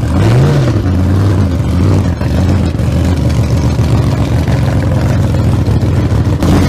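Engine running loudly, with a short rev up and back down about half a second in, then holding at a steady speed.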